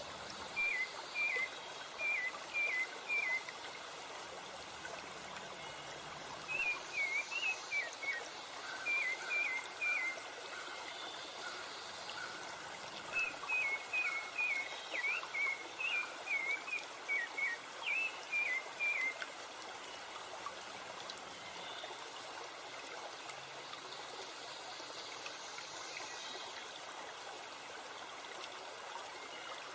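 Steady rushing water of a river and waterfall, with a bird singing runs of short, quick chirping notes: three bouts through the first two-thirds, then only the water.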